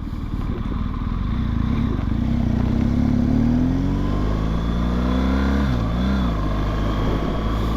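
BMW R1200GS Adventure's boxer-twin engine pulling under way with wind noise. The engine note rises steadily for a few seconds, dips and wobbles briefly about six seconds in, then holds steady.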